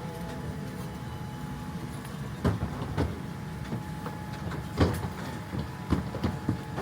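Steady hum of a Boeing 787-9 cabin at the gate during boarding, broken by several knocks and thumps from overhead bins and luggage being handled. The loudest thump comes near the middle.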